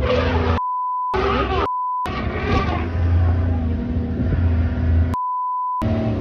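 Three censor bleeps, a flat 1 kHz tone each, cut over people's voices, the last one longer than the first two; between them a vehicle engine runs steadily.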